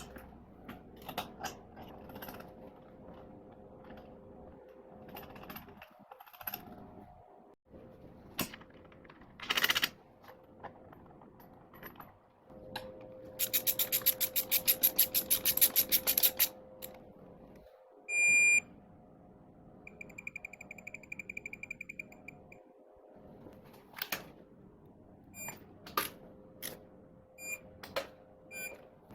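Hand tools working on an engine: a ratchet clicking rapidly for about three seconds, with scattered light metal clicks and clinks around it. About five seconds into the second half come a short electronic beep and then a warbling electronic tone lasting about two seconds, over a faint steady hum.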